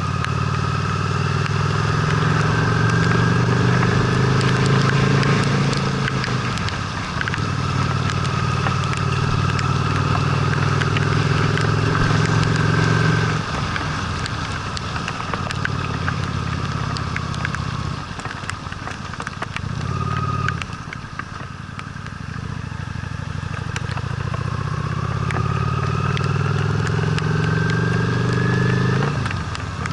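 Honda Steed V-twin motorcycle engine under way, the revs climbing and dropping back at a gear change about six seconds in, climbing again, then easing off about halfway through. After a short rise in revs, it climbs steadily once more and shifts again near the end, with small scattered ticks over the engine.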